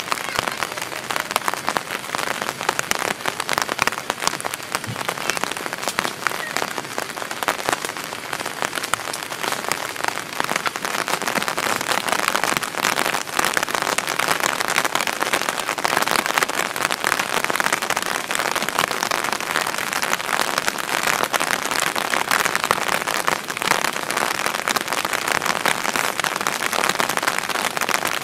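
Heavy rain falling on a DD Tarp 4×4 and the grass around it: a dense, steady patter of drops that grows a little heavier about halfway through.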